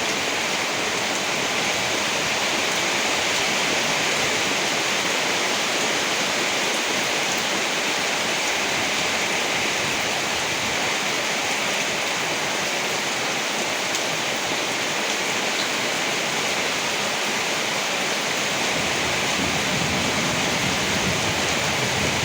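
Steady heavy rain with a constant hiss. A low rumble builds in underneath near the end.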